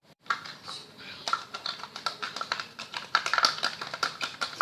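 Homemade glue slime being squeezed and kneaded by hand, giving off rapid, irregular clicking and popping that grows denser and louder toward the end.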